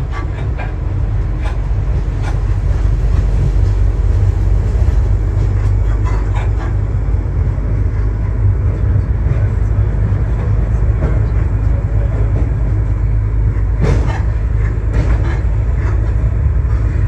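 Waggon und Maschinenbau diesel railbus running along the line, a steady low engine and running hum with a few clicks and knocks from the wheels on the track.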